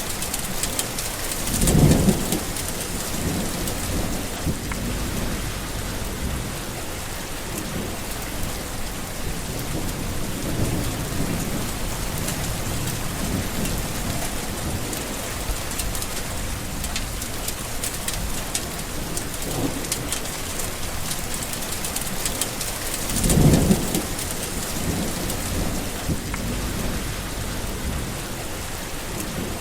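Steady heavy rain with rolling thunder in a thunderstorm. Two louder, low rumbles of thunder come about two seconds in and about three quarters of the way through, with fainter rumbles in between.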